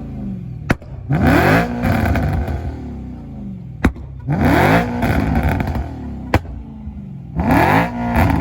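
BMW E9X M3's S65 V8 with an aftermarket exhaust, free-revved three times: each rev climbs sharply and falls back toward idle. A short sharp crack comes just before each rev.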